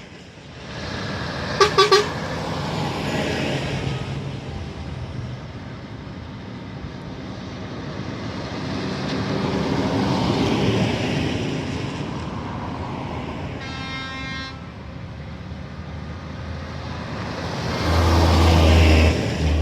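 Tractors driving past one after another, their engine noise swelling and fading as each goes by. A horn toots three times about two seconds in and sounds again briefly around the middle. A deep, loud engine passes close near the end.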